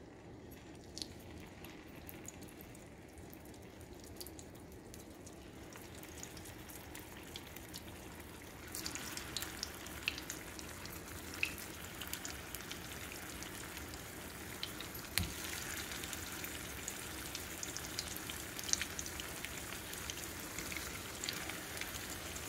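Chicken shami kababs shallow-frying in oil in a small nonstick frying pan: a soft sizzle with scattered pops and crackles. The sizzle grows louder about nine seconds in, as more kababs go into the pan, and there is a single sharp tap about fifteen seconds in.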